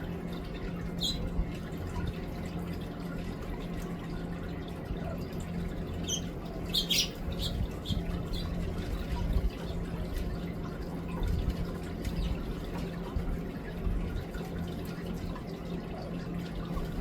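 Small birds chirping and tweeting in short calls, a cluster of them about six to seven seconds in, over the steady trickle of a small garden fountain.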